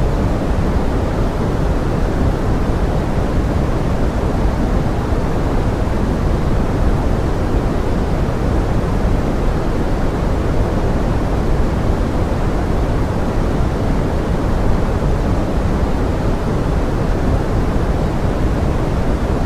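Steady pink noise: an even, unchanging rushing hiss, heaviest in the low end and thinning out toward the top.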